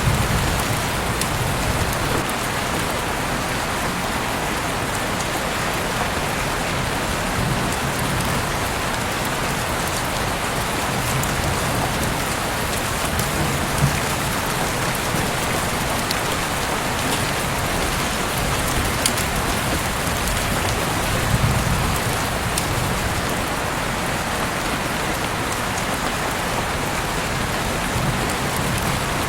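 Heavy rain falling steadily outside an open window, an even wash of noise with a few louder single drop hits standing out now and then.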